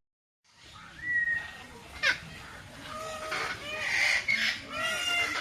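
Several birds calling over one another, after a brief dropout at the start. A whistled note comes about a second in and a sharp call around two seconds, then a run of short, quickly repeated calls builds toward the end.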